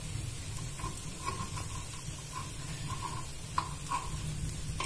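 Paniyaram batter frying in oil in a paniyaram pan with faint sizzling, while a metal skewer and spoon give irregular light taps and scrapes against the pan as the dumplings are turned.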